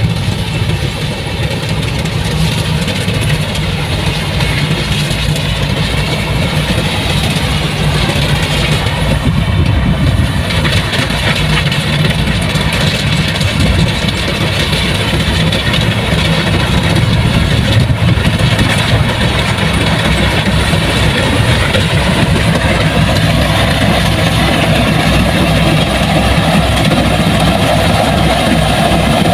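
Heavy machine engine running steadily. A mid-pitched tone rises slightly near the end.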